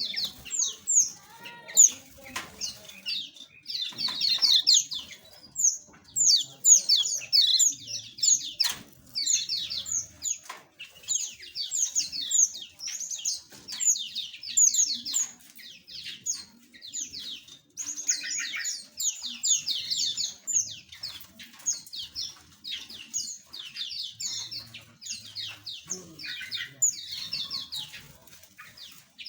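A flock of small aviary birds chirping continuously, many quick high notes overlapping, with scattered sharp taps and clicks among them.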